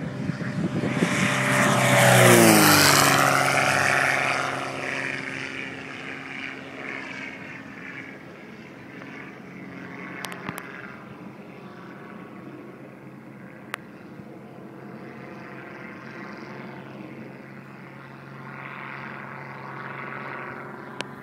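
Sonex light aircraft's propeller engine passing low overhead: loud on approach, its pitch drops sharply about two seconds in as it goes by, then it settles into a steady, fainter drone as it flies away.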